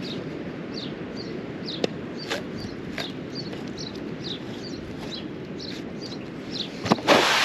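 Small songbirds chirping, short high chirps repeating every half second or so, over a steady low background rumble. Just before the end a sudden loud burst of noise with a few knocks.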